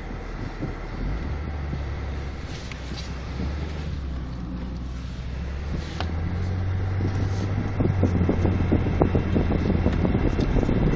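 A vehicle's engine running as it drives through deep snow. Its hum steps up in pitch about a second in and again around six seconds, and a louder, rougher rumble builds over the last few seconds.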